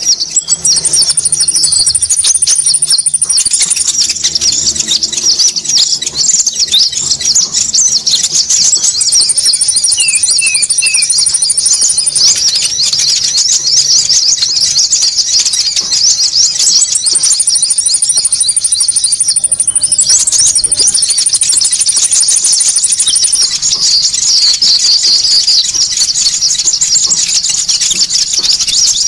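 A dense, noisy chorus of small songbirds chattering in rapid high calls. A thin, very high trill is held for two to three seconds at a time, four times over. This is a bird-trapping lure recording ('suara pikat') meant to attract konin.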